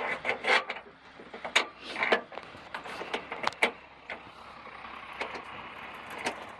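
Irregular metallic clicks and taps of hand tools working on an old silage chopper, about a dozen sharp strikes over the first four seconds, giving way to a quieter steady mechanical hum.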